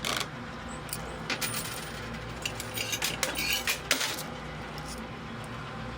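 Quarters dropping and clinking in a coin pusher arcade machine, several sharp clinks scattered irregularly, over the machine's steady low hum.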